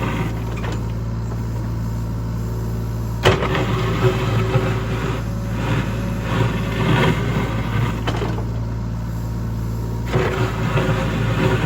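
An earthmoving machine's engine running steadily, with a sharp knock about three seconds in and stretches of rattling, scraping noise.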